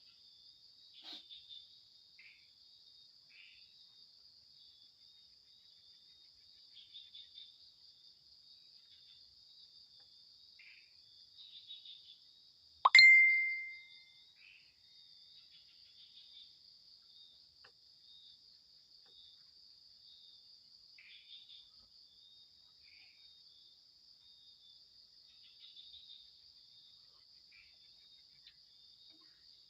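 Night insects trilling steadily in forest, with faint scattered short calls. About halfway through, one sudden loud plop with a brief ringing tone that dies away within a second.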